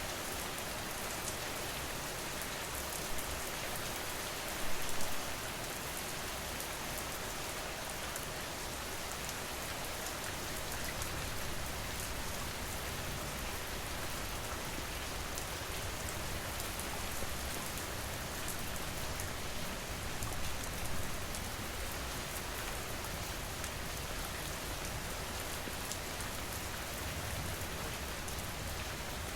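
Steady rain falling, a dense even hiss with fine ticks of individual drops, and one brief louder patch about five seconds in.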